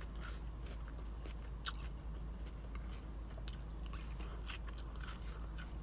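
Chewing and biting a mouthful of salad close to the microphone, with scattered crisp crunches and light clicks of a metal fork in a plastic salad container, over a steady low hum.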